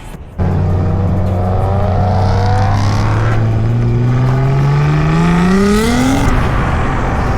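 A car engine running loud at steady high revs, then revving harder with its pitch climbing for a couple of seconds before dropping off, as at a car meet rev or pull-away.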